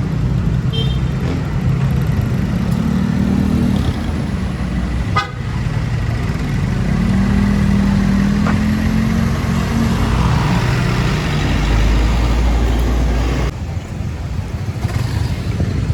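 City street traffic heard from a moving bicycle: motor vehicles running close by under a heavy low rumble, with a vehicle horn sounding.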